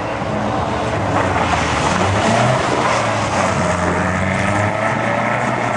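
Lada (VAZ classic) race car's four-cylinder engine running hard on a gravel autocross track, its pitch dipping and rising with the throttle, with a hiss of tyres and gravel underneath.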